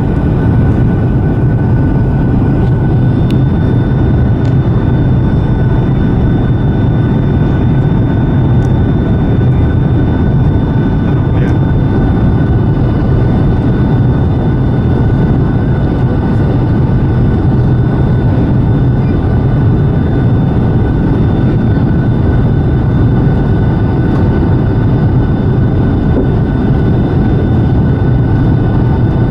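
Steady, loud cabin noise of a Boeing 757-200: a deep, unbroken rumble of engines and airflow with a faint steady whine above it, unchanging throughout.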